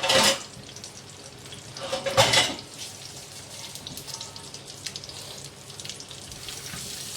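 Hot oil sizzling in the pan as the oil is drained off the fried duck pieces. There are two louder splashy sizzles, one at the start and one about two seconds in, then a steady fizz.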